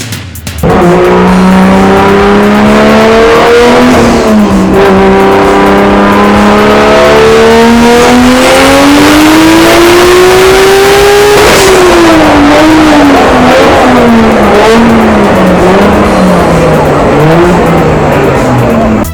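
Car engine pulling hard, its pitch climbing steadily for about ten seconds, then dropping off and wavering as the revs fall.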